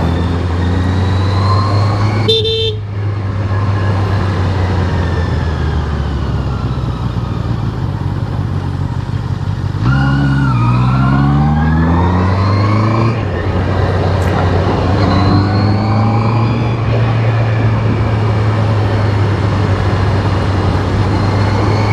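Honda CBR650R inline-four engine running at road speed, with wind noise. A short horn toot comes about two seconds in. About ten seconds in the revs rise for some three seconds as the bike accelerates, then drop back.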